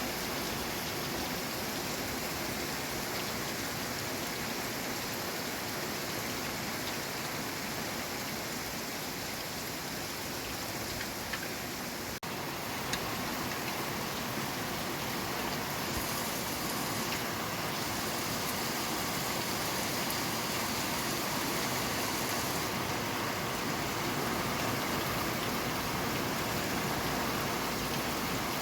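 Steady rainfall, an even hiss of falling drops, with a couple of sharp drip ticks near the middle.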